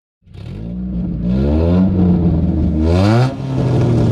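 A motor vehicle engine cuts in abruptly and runs loudly under throttle. Its pitch climbs sharply about three seconds in, drops back, then starts climbing again near the end, as in revving or pulling through a gear change.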